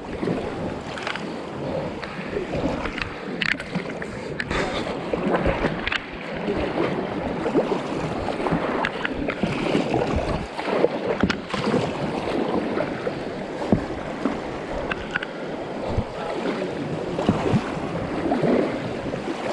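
Fast-flowing river water rushing, with kayak paddle strokes splashing repeatedly throughout; the river is running high.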